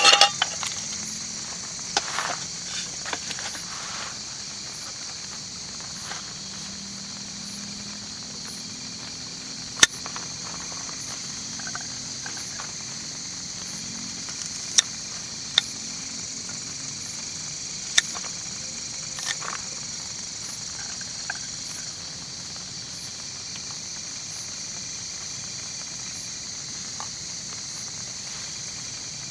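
Steady high-pitched chorus of crickets and other night insects, broken by a dozen or so scattered sharp ticks.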